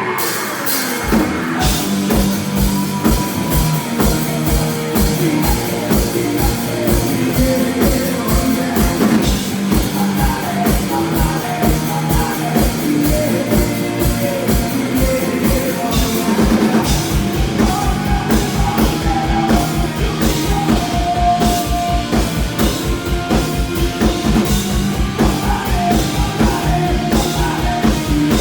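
Rock band playing live: drum kit with a steady kick-drum beat under bass and guitars. The kick drops out for about a second at the start, then comes back in.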